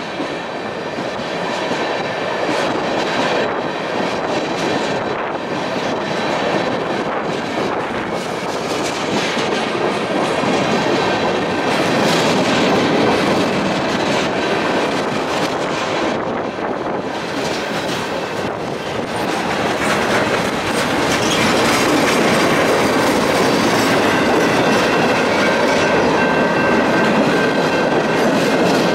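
Freight train cars rolling past close by: a steady rumble of steel wheels on rail with clickety-clack over the rail joints and a thin, faint wheel squeal. It grows a little louder about two-thirds of the way through.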